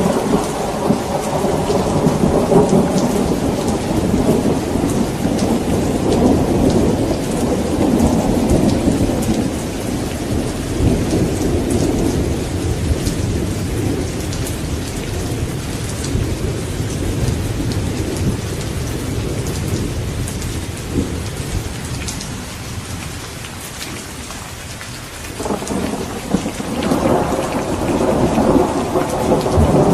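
Steady heavy rain with rolling thunder. A long rumble fades away over the first half, and a fresh roll breaks in suddenly near the end and grows loud.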